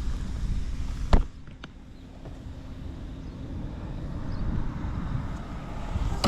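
Honda Motra's small single-cylinder four-stroke engine running quietly, without odd noises. A sharp click comes about a second in, after which the sound drops and slowly builds again.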